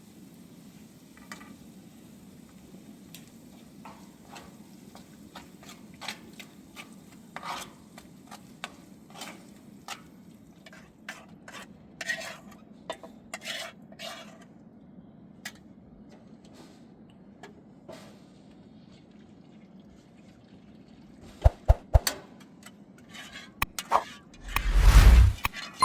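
Metal utensils clinking and scraping against pots and dishes while food is stirred, as scattered sharp clicks over a faint steady hum. Several loud knocks come about three-quarters of the way through, then a loud rushing clatter near the end.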